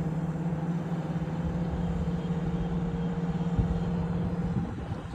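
Boom truck crane's engine running steadily with a low hum while it swings the man basket, over wind rumble. The hum cuts off about four and a half seconds in.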